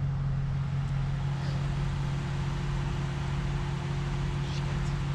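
Ram 1500 pickup's engine idling steadily.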